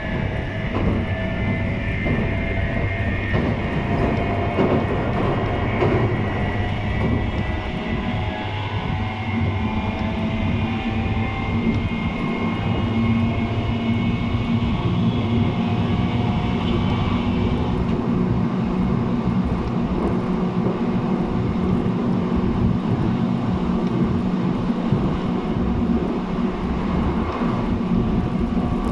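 Running sound of a JR East 719 series electric train heard from inside the car: several steady motor and gear whine tones over a low hum and rumble of wheels on rail. The higher whine tones drop out about two-thirds of the way through, leaving a steady low hum. This unit is known as an "abnormal-noise car" (異音車).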